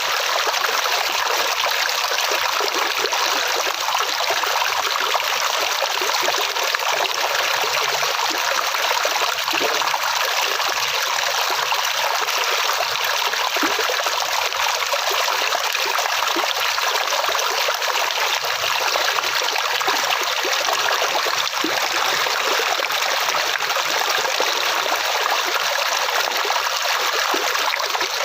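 Flowing water running steadily, a stream trickling and splashing with an even, hissy rush.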